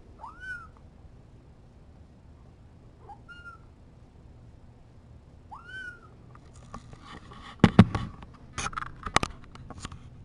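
A young kitten mewing three times, each mew a short high call that rises and falls. In the last few seconds a run of sharp clicks and knocks, the loudest about two thirds of the way in.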